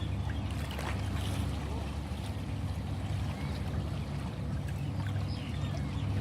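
Ocean waves washing steadily, the sound mostly deep and low with a fainter hiss above.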